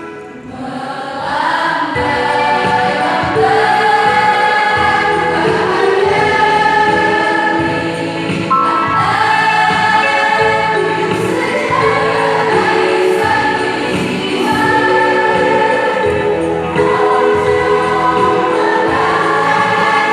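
A mixed choir singing a song in several parts. It dips briefly right at the start, then comes back in full voice with long held notes.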